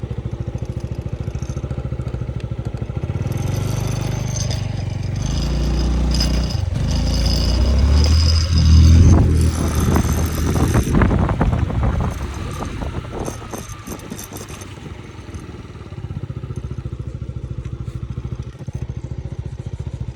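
Motorbike engine idling with a fast, even pulse. In the middle a louder, lower sound swells up over several seconds, peaks and fades away, and then the idle is heard alone again.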